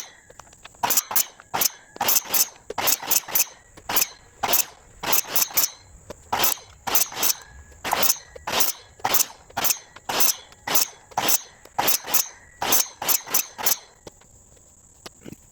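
Wooden quarter-round trim being cut with a hand saw: quick, rhythmic back-and-forth strokes, about two a second, which stop near the end. Crickets chirp steadily behind it.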